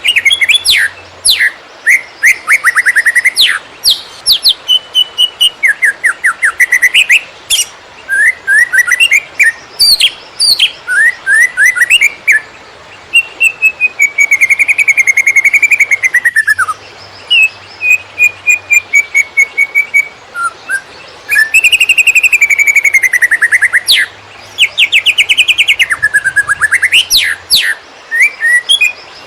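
Green leafbird (cucak ijo) singing a fast, varied song of chirps, rapid trills and long sweeping whistles, in the hurried 'konslet' style, with only brief pauses.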